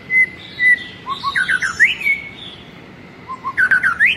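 A songbird singing the same short phrase twice, about a second in and again near the end. Each phrase is a few quick low notes, a run of falling chirps, and a sharp upward slur ending in a held note, with a thin high note heard before the first.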